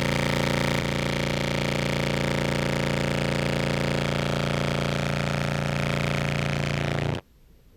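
A sustained low contrabass clarinet note, heard as a recorded sample played through a fuzz and compressor pedal chain, gives a loud, buzzy, distorted tone held steady for about seven seconds before cutting off abruptly.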